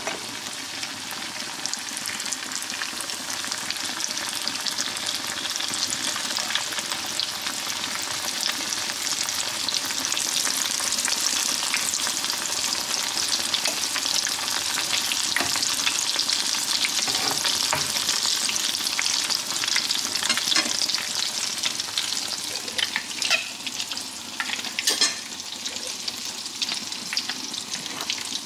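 Pieces of cottage-cheese dough frying in hot oil, a dense, steady crackling sizzle that is loudest in the middle, with a few sharper crackles near the end.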